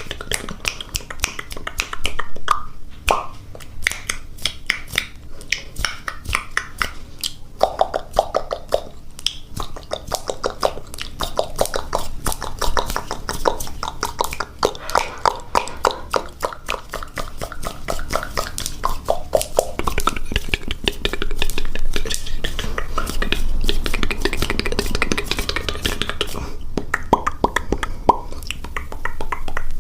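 ASMR mouth sounds: a rapid, unbroken run of wet clicks and pops made with the mouth.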